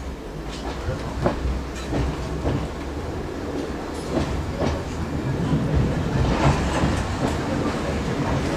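Class 108 diesel multiple unit moving slowly through station pointwork. The diesel engine runs low and steady under irregular clicks and clunks of the wheels over points and rail joints.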